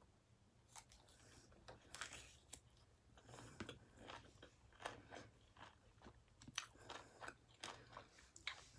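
Faint close-up chewing: soft wet mouth smacks and small crunches at irregular intervals, from someone eating.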